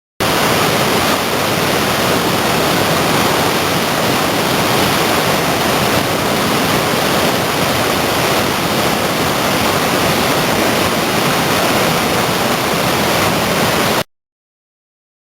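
Creek whitewater rushing, a loud steady wash of water that starts suddenly and cuts off abruptly near the end.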